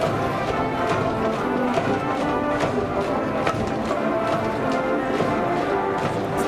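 A school brass band plays a baseball cheer tune in a stadium stand: sustained brass chords with drum hits throughout.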